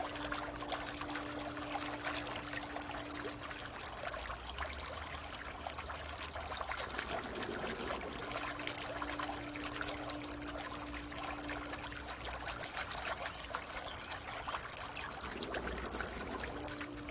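Water trickling and splashing steadily in a pool, with a faint motor hum underneath. The hum switches every four seconds or so between a steady higher tone and a low rumble.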